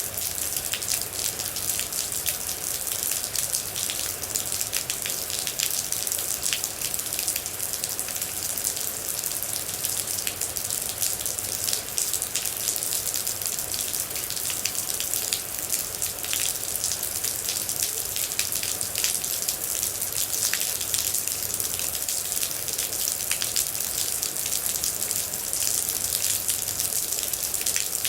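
Steady rain with many individual droplets ticking irregularly over a continuous hiss.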